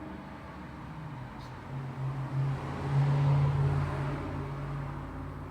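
Road traffic: a vehicle passes close by, its engine hum and tyre noise swelling to a peak about three seconds in and then fading, over a steady background of traffic.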